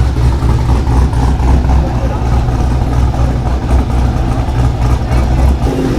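Loud, deep rumble of a muscle car's engine idling at close range, which drops away shortly before the end.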